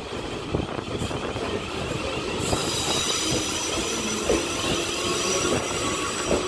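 South Western Railway Class 450 electric multiple unit pulling out of the station, its wheels rumbling on the rails, with high-pitched squealing tones joining in about two and a half seconds in.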